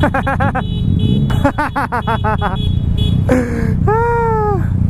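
Steady engine and wind rumble of a motorcycle being ridden in traffic. Over it come two quick runs of rapid pitched chirps, then near the end a falling tone and one longer call that rises and falls.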